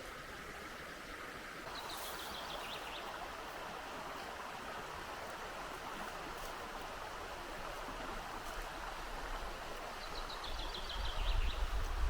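Steady rush of flowing river water. A bird twice gives a quick series of descending notes, and a low rumble of wind on the microphone comes in near the end.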